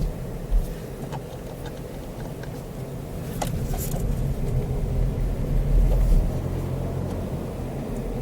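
Car driving, with a steady low rumble of engine and road noise that swells for a few seconds midway, and a few faint clicks.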